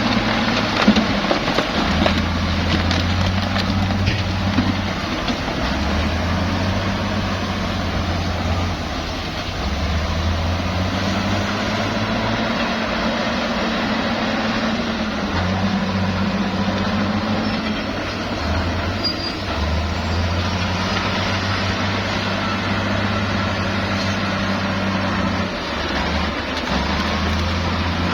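Heavy diesel bulldozer working. Its low engine note steps up and down every few seconds as the load changes, over a constant rattly mechanical noise.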